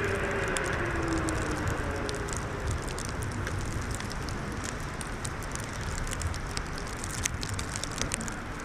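Snowmobile engines passing in the distance, their drone falling in pitch and fading out over the first few seconds. Underneath is a steady rumble of wind on the microphone, with scattered light crackles.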